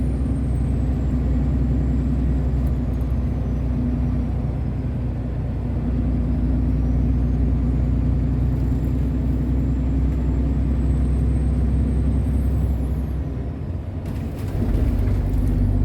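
Heavy truck's diesel engine running on the road, heard from inside the cab: a steady low drone with a faint high whine drifting slowly up and down. The drone drops away briefly about a second and a half before the end, then comes back.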